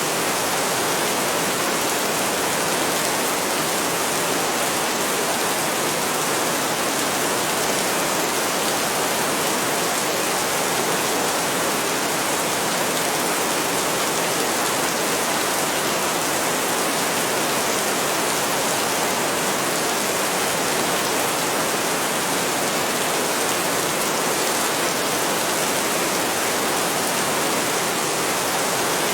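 Heavy rain falling steadily: a dense, even hiss with no thunder and no change in strength.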